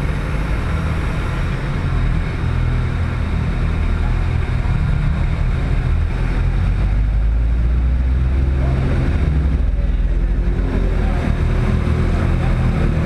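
Car engine running at low speed during a slow drive, a deep, steady drone that swells a little about halfway through.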